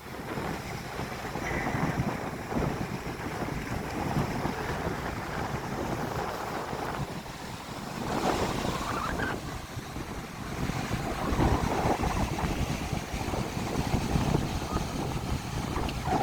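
Strong wind buffeting the microphone over the wash of surf breaking on the beach, swelling louder a couple of times as waves come in.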